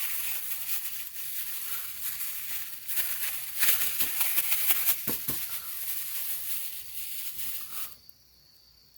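Shiitake mushrooms sizzling on a grill over a campfire: a steady hiss with fine crackles that cuts off abruptly about eight seconds in.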